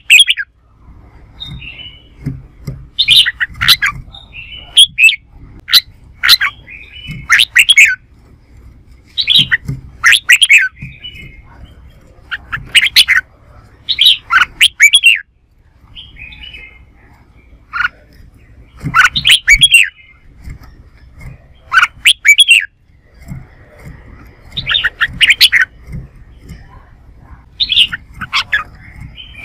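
Red-whiskered bulbul singing in short, loud, sweet phrases every second or two, with softer chattering notes in between.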